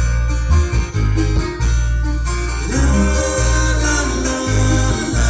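Live band playing a bluegrass-style rock cover, with plucked strings over a heavy, pulsing bass. No singing is heard.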